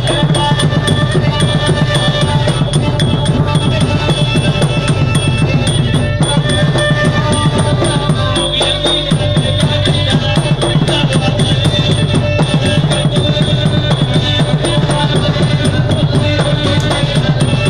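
Nora ensemble music: fast, continuous drumming with a held melodic line over it.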